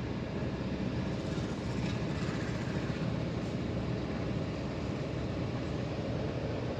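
Engine of the vehicle the recording is made from, running steadily: a low, even rumble.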